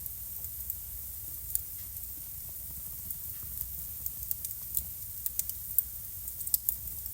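Wood fire burning in a fireplace, crackling with sharp, irregular pops over a low steady rumble. The pops come more often in the second half.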